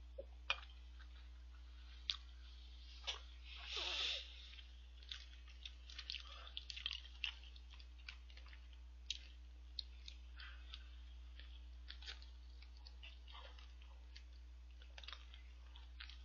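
Close-miked chewing and biting of a shrimp burger, with scattered sharp wet mouth clicks and a brief rustling sound about four seconds in.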